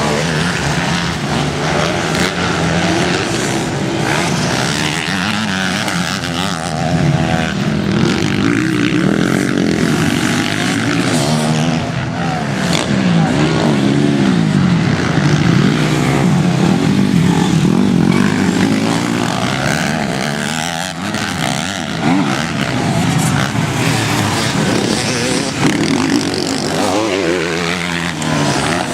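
Motocross bike engine running hard on a dirt track, its pitch rising and falling again and again as the throttle is opened and closed.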